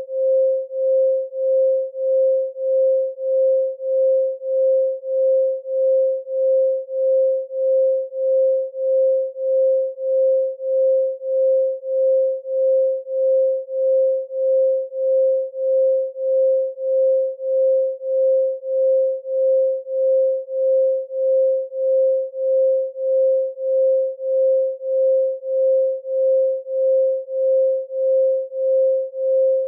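A pure 528 Hz sine tone, a solfeggio 'healing frequency', pulsing evenly in volume about one and a half times a second.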